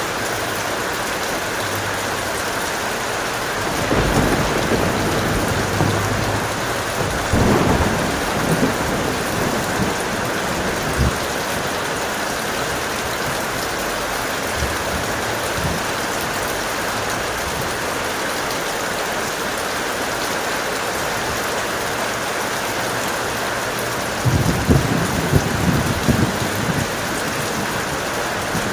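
Strong, steady rain, with thunder rumbling and crackling a few seconds in and again near the end.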